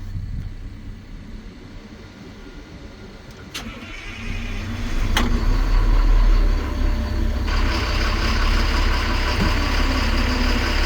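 Cat 725C articulated haul truck's C11 diesel engine starting, heard from inside the cab: two sharp clicks, the engine turning over and catching with a strong low surge about five to six seconds in, then settling into a steady idle. A steady hiss comes on about seven and a half seconds in.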